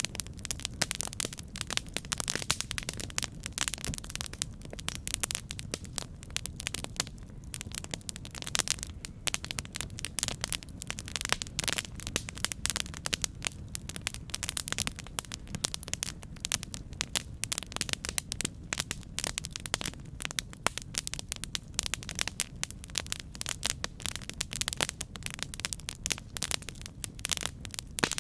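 Campfire burning: a steady low rumble of flames with a constant run of sharp, irregular crackles and pops.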